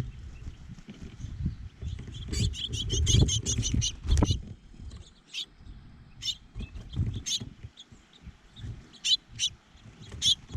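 Small songbirds at a feeder chirping: a quick run of about ten high chirps a couple of seconds in, then single chirps scattered after. An uneven low rumble sits under them, with one sharp knock about four seconds in.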